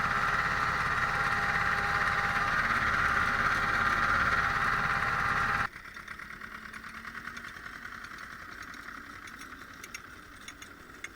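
Ursus C-330 tractor's two-cylinder diesel engine running steadily. About halfway through the sound drops suddenly to a much quieter engine run with light ticking.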